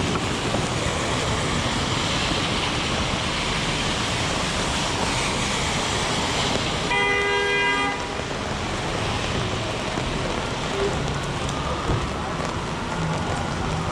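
Heavy rain and wet city traffic make a steady hiss, and about halfway through a vehicle horn sounds once for about a second.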